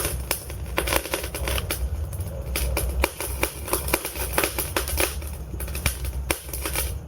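Wood logs burning in a fireplace, crackling with many quick, irregular snaps and pops over a low, steady rumble of the fire.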